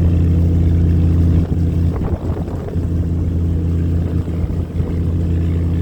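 Fishing boat's engine running steadily at sea with a deep, even hum. From about a second and a half in, uneven low buffeting breaks into it.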